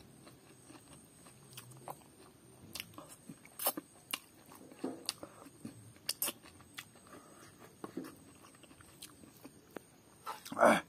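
A person chewing a mouthful of rice and pork curry, eaten by hand: scattered wet clicks and smacks of chewing, with a louder mouth sound near the end.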